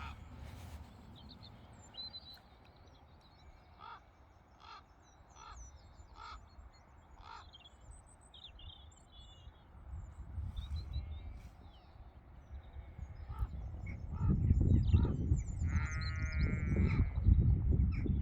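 Crows cawing, a string of harsh calls about a second apart, with small birds chirping high above them. A low gusty rumble of wind on the microphone swells over the last few seconds and becomes the loudest sound.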